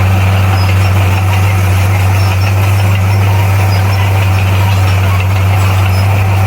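Bulldozer's diesel engine running steadily with a loud, even low hum.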